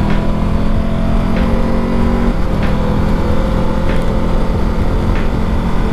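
Triumph Tiger 1200's three-cylinder engine running steadily under way, its note changing pitch about two and a half seconds in. A faint tick repeats about every second and a half.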